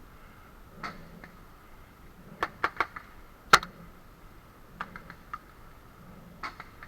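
Paintball markers firing: sharp pops in irregular groups of one to three, the loudest about halfway through.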